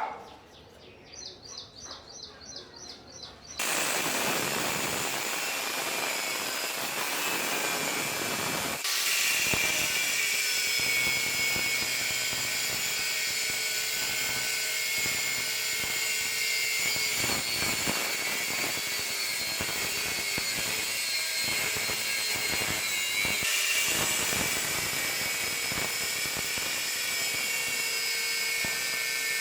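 A power tool starts up suddenly and runs steadily on metal with a high whine, getting louder about nine seconds in as it bites into the work.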